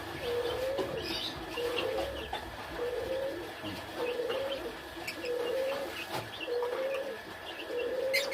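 A bird calling a short, low, slightly rising note about once a second, over and over, with faint high chirps in between.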